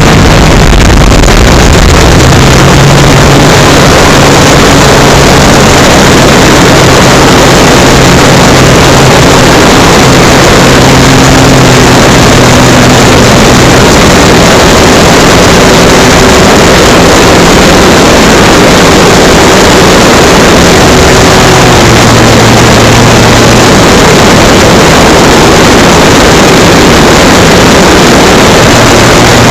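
Electric motor and propeller of an FMS Cessna 182 RC model plane, heard from a camera mounted on the plane, buried in loud wind rush. The motor's hum steps up and down in pitch several times as the throttle changes.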